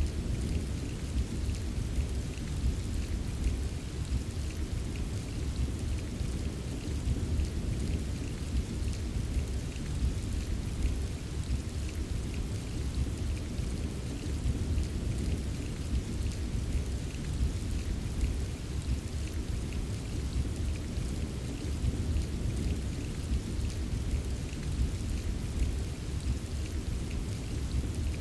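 Steady rain ambience with a constant low rumble underneath and small ticks of drops scattered over it.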